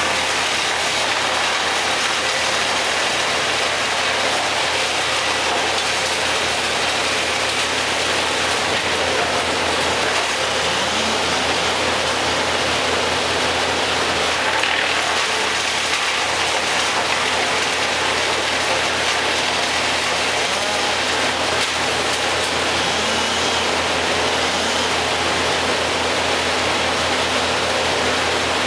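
Heavy engine machinery running steadily, a constant rumble under a broad even noise, with a few faint rises and falls in pitch.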